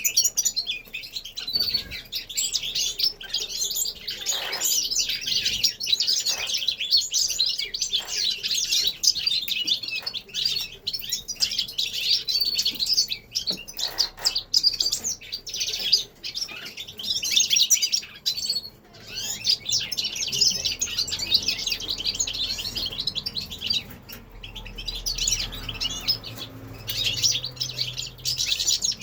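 A flock of caged finches chirping and singing all at once, a dense, continuous high twittering with many overlapping calls.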